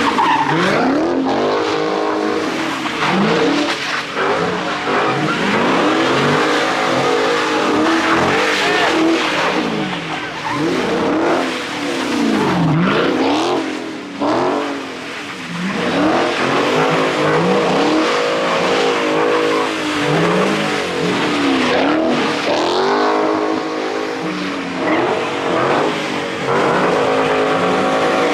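Car engine revving hard and dropping back over and over, every second or two, with tyre noise, as cars spin donuts in a takeover pit.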